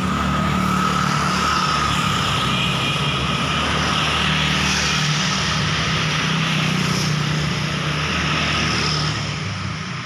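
Motor vehicles passing on a busy road: a steady engine hum under broad tyre and road noise, easing off about nine seconds in.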